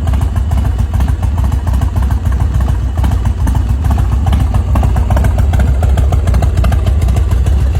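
Custom chopper's V-twin engine running steadily, a dense, even rumble of firing pulses with no revving.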